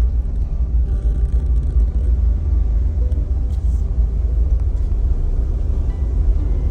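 Car driving uphill, heard from inside the cabin: a steady low rumble of engine and road noise.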